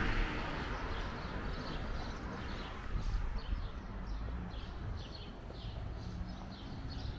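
A small bird chirping repeatedly, short high chirps about twice a second, over a low steady background rumble.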